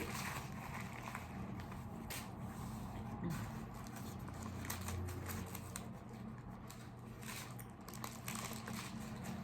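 Close-up eating of a fried chicken sandwich topped with macaroni and cheese: chewing and mouth sounds, with scattered crisp clicks and crackles throughout.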